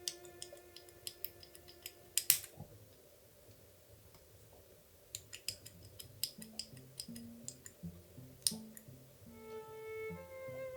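Small sharp clicks and taps of model engine kit parts being handled and fitted together, in two runs with a short pause between, over soft background string music.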